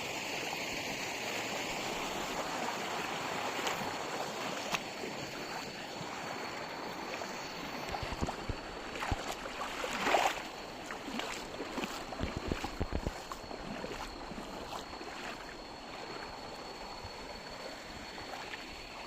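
Steady rush of flowing stream water, with scattered short knocks that come more often in the second half, and a faint, high, steady tone.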